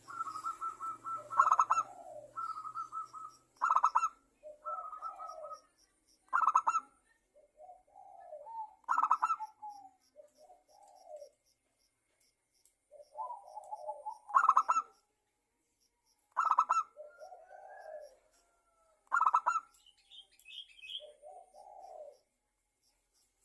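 Zebra dove (perkutut) cooing: repeated phrases of rapid, rolling staccato coos, each phrase carrying a loud, sharp accented note, every two to three seconds, with softer, lower coos in between.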